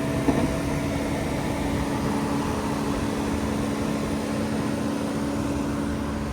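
A machine running with a steady hum over a rushing noise, like a fan or motor, with a single brief knock about a quarter second in.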